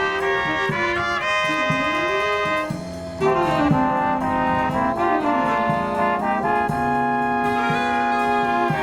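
Brass marching band with trumpets, trombones and drums playing a medley live. Just under three seconds in the band drops back briefly, then comes in again louder with full brass chords.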